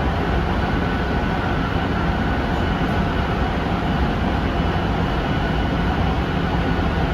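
Tsukuba Express commuter train running between stations, heard from inside the passenger car: a steady rumble of wheels on rail with a faint steady high whine over it.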